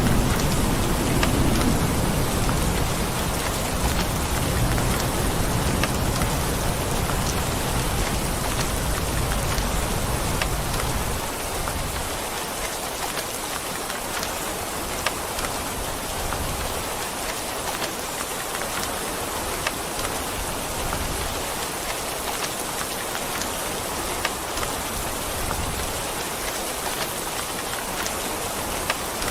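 Steady rain with a low rumble of thunder that dies away about ten seconds in, leaving an even patter of rain with a few sharp drop ticks.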